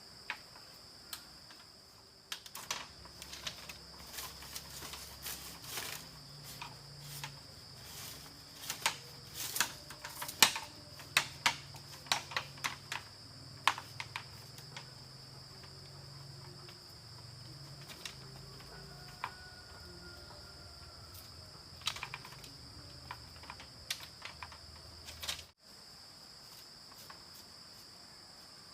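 Crickets trilling steadily under many irregular sharp clicks and light knocks, thickest in the first half, with a few more near the end. The sound cuts out for a moment shortly before the end.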